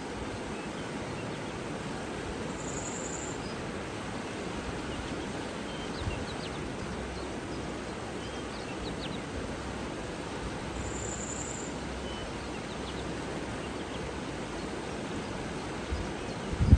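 Outdoor nature ambience: a steady rushing of water and wind, with two short, high bird trills, one about three seconds in and one about eleven seconds in, and a few faint chirps between them.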